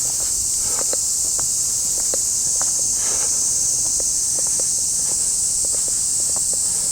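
Steady high-pitched insect drone of a summer cicada chorus, the loudest thing throughout, with soft irregular taps of footsteps walking along a path.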